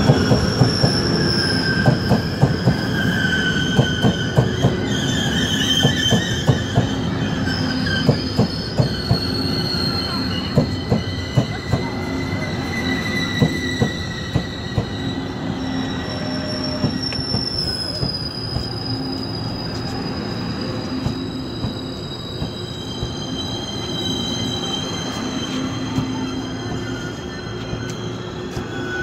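TRA E1000 push-pull Tze-Chiang express coasting into the platform and braking to a stop. Its wheels click over the rail joints, thick at first and thinning out by about halfway. High squeals slide slowly down in pitch as it brakes.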